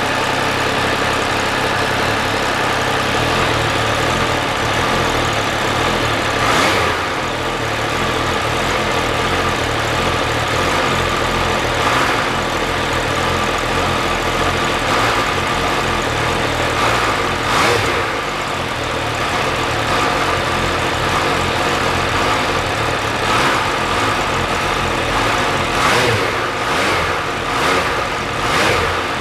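MV Agusta Dragster 800 RR's three-cylinder engine running at fairly steady revs, with short bursts of noise every few seconds that come more often near the end.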